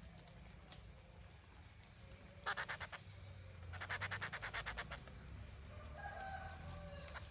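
Rufous treepie giving harsh rattling calls: a short rattle about two and a half seconds in and a longer one about a second later. A steady, high pulsing insect trill runs underneath, and a fainter drawn-out call comes near the end.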